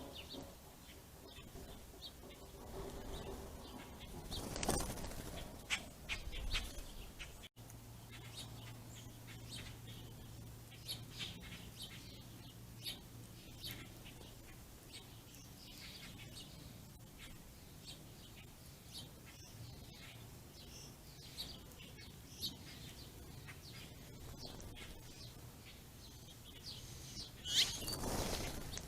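Small songbirds, house sparrows and finches, chirping in short repeated calls, with two louder swells of sound about five seconds in and near the end.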